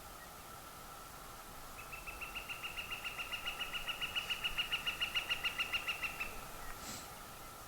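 A wild bird giving a long, even trill of quick high notes, about seven a second, for roughly four seconds. A faint steady high tone runs under it.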